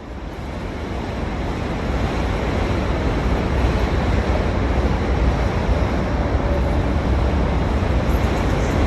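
Wind buffeting the microphone over a steady rushing noise, fading in over the first couple of seconds.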